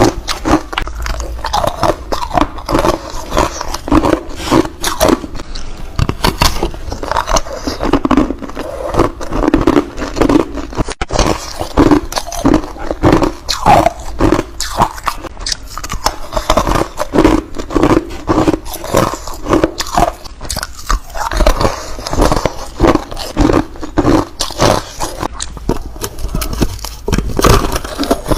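Close-miked biting and chewing of foam ice: a dense run of crisp crunches and crackles, several to the second, with scraping between bites.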